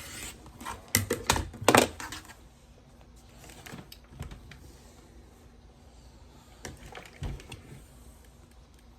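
Handling noise at a sewing table: a quick cluster of sharp clicks and knocks about a second in, then a few scattered light taps.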